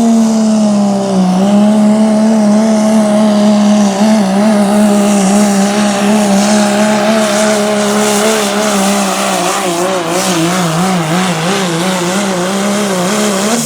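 Turbo diesel pickup truck pulling a sled at full throttle, its engine held at high revs. The pitch dips briefly about a second in, then wavers up and down from about five seconds on as the truck bounces and loads down the track, and drops at the very end as the pull finishes.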